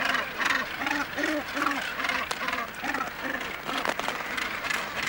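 Northern gannet colony calling: many birds giving short harsh calls over one another, with a rapid string of calls standing out at about three a second.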